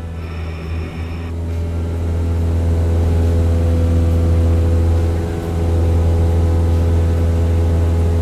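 A steady, low engine-like drone that grows louder over the first few seconds, with a brief dip about five seconds in.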